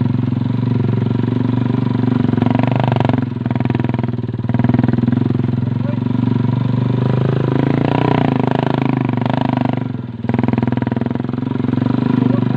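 Motorcycle engine running steadily while riding, with the throttle briefly eased off a few times: about three seconds in, just after four seconds, and near ten seconds.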